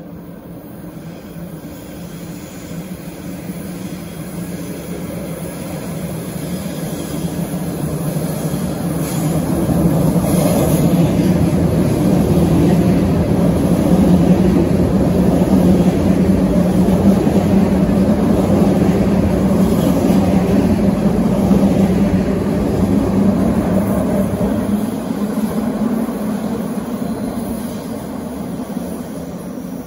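Sydney Trains Waratah electric suburban train passing close by. Its rumble builds for about ten seconds, holds loudest with a steady low hum as the cars go past, then fades away near the end.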